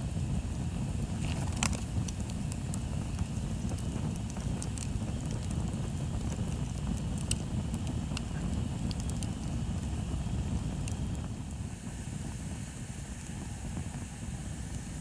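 Bonfire crackling, with scattered sharp pops and snaps, the sharpest about two seconds in, over a steady low rumble of wind on the microphone.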